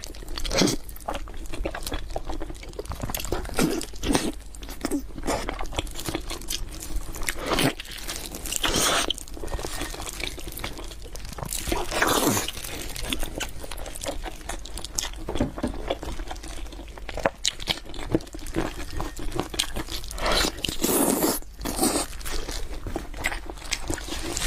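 A person eating close to the microphone, with irregular biting, crunching and wet chewing sounds and a few louder bites.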